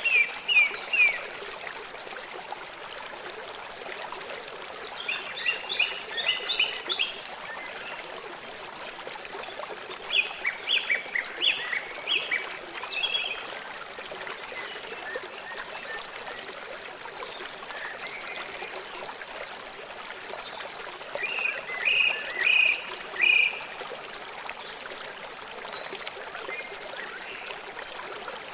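A songbird singing four short phrases of quick, downward-sliding notes, a few seconds apart, over the steady rush of a stream.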